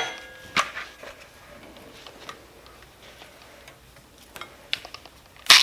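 A few light clicks and a short metallic clank of steel being handled, then near the end an angle grinder starts up with a sudden loud, steady hiss, grinding paint off the steel.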